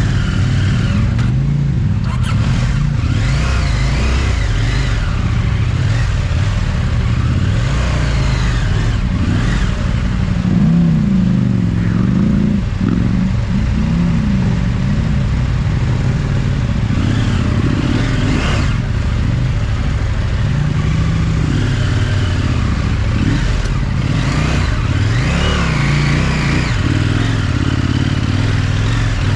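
Parallel-twin adventure motorcycle engine pulling through rough off-road ground, its revs rising and falling with the throttle, with a few sharp knocks from the bike over the terrain.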